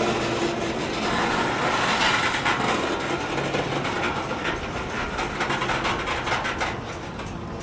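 Covered hopper cars of a freight train rolling past close by: steel wheels running on the rails with a rapid clickety-clack of clicks and knocks. The sound eases off a little near the end.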